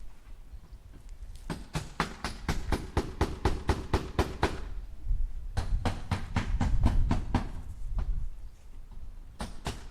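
A hammer tapping nails into wood in quick, even runs of about five strikes a second, with short pauses between the runs, over a low rumble.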